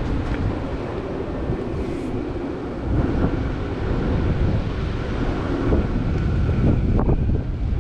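Strong wind buffeting the microphone in gusts, a loud low rumble that rises and falls.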